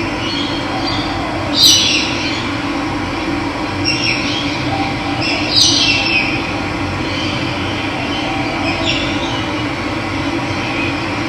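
Steady rush of running water with wild birds calling over it: a handful of short, falling chirps, the loudest about 2 s and 6 s in.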